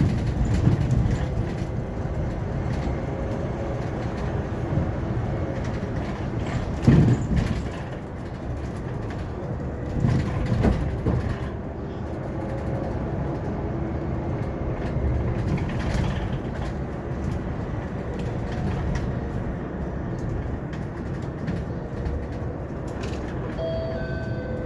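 Hyundai Elec City electric bus under way: steady low rumble and road noise with a faint steady whine, and a couple of knocks from the ride. Near the end a short chime sounds, leading into the next stop announcement.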